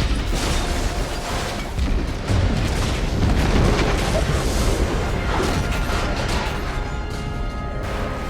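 Film sound of a nuclear blast: a continuous deep rumble with booms, under an orchestral score that comes through more clearly near the end.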